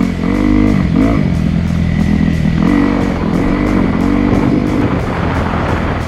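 Dirt bike engine revving up and dropping back again and again, as when a rider shifts through the gears, with background music over it.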